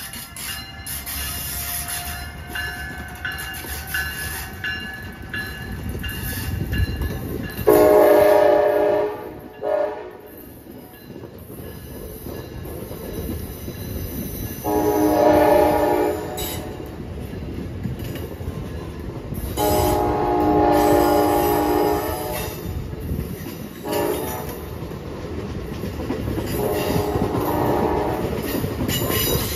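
Amtrak train, hauled by an ACS-64 electric locomotive, passing with the steady rumble and clatter of its coach wheels on the rails, while its multi-tone horn sounds five blasts: three long ones about 8, 15 and 20 seconds in, a short toot near 24 seconds and a fainter long one near the end.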